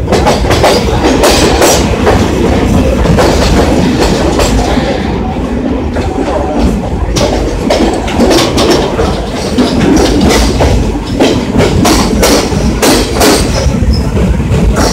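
Deccan Queen express passenger coaches running on the rails inside a tunnel, heard from an open door: a loud, steady rumble of wheels on track, with frequent sharp clicks and clatter.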